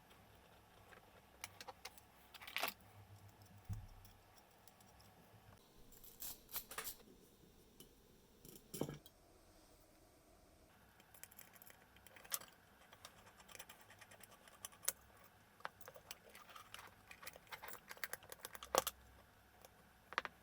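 Irregular light clicks, taps and small knocks of small hard parts and tools being handled, with a few louder clacks scattered through.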